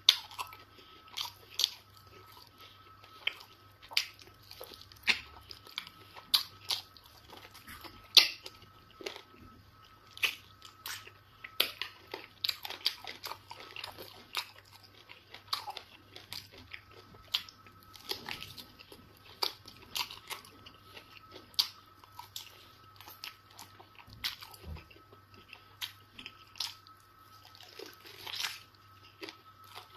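Close-miked eating sounds: irregular wet smacks and chewing of fufu and eba with egusi soup, a few sharp mouth clicks each second. A faint steady high tone runs underneath.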